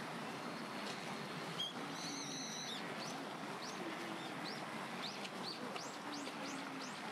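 A small songbird calling: a short high call about two seconds in, then a run of quick, high sliding notes at two to three a second that grows quicker toward the end, over a steady background hiss.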